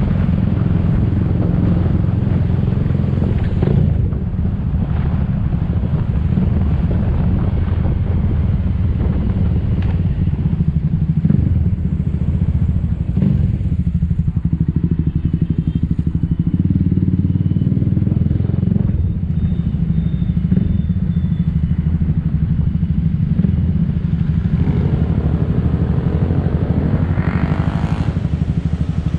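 Motor scooter riding in city traffic: steady engine and road noise with heavy wind buffeting on the microphone, and a brief rising whine near the end.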